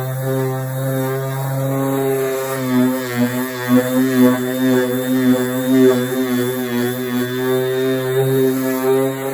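Power sander running steadily while sanding a car body panel with 180-grit paper, its motor hum wavering in pitch and level through the middle as it is worked over the panel.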